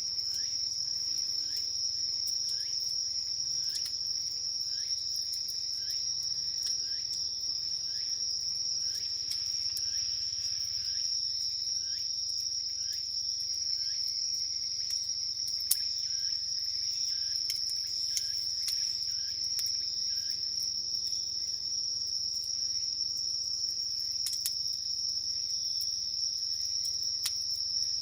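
Chorus of crickets and other night insects trilling, one steady high-pitched trill throughout. Another insect adds short rising chirps about twice a second in the first half. Occasional sharp pops from the campfire break in, the loudest about 16 seconds in.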